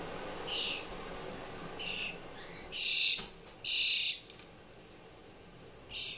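Hand-reared fledgling songbird giving begging calls while being fed: five short, high calls, the two loudest and longest about three and four seconds in.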